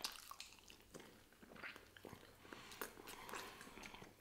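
Faint, close-up chewing of barbecued baby back ribs, with scattered soft, irregular clicks.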